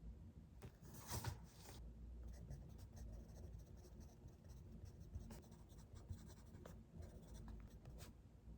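Faint, soft scratching and rubbing, with a brief louder rustle about a second in, and a few small clicks.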